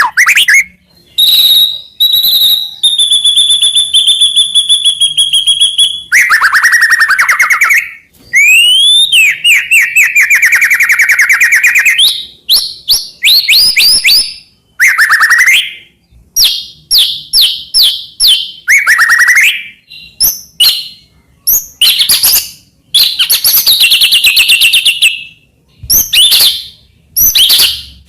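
White-rumped shama (murai batu) singing loudly: a long, varied song of a held whistle, rapid rattling trills, down-slurred sweeping notes and quick repeated phrases, with short pauses between phrases.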